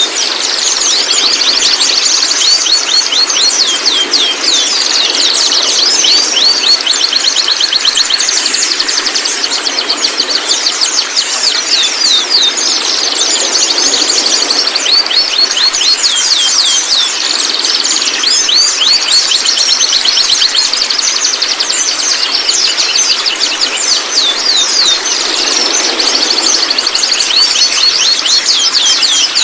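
Juvenile white-rumped shama (murai batu) vocalizing: a continuous, loud run of rapid high twittering notes and short sweeps, many per second, without pause.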